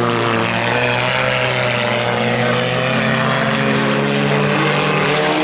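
Several front-wheel-drive four-cylinder sport compact race cars running on track, their engines held at steady high revs with overlapping pitches that bend slowly up and down.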